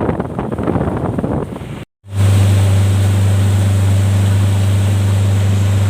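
Motorboat ride: wind and water rush loudly over the microphone, then, after a sudden cut about two seconds in, the boat's engine gives a steady low drone.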